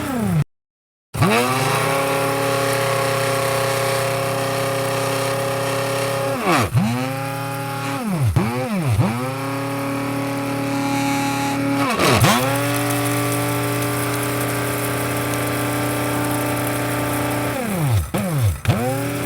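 Electric coffee grinder motor running with a steady hum, its pitch dipping sharply and coming straight back up several times. The sound cuts out completely for a moment just after the start.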